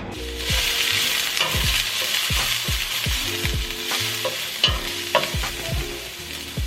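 Diced onions and red and green bell peppers sizzling in hot olive oil in a pan. The sizzle starts abruptly and keeps up, with occasional clicks of the vegetables being stirred.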